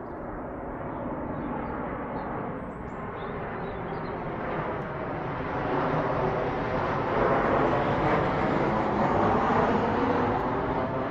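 Steady vehicle rumble with a rushing noise, growing louder over the first few seconds and holding near its peak toward the end.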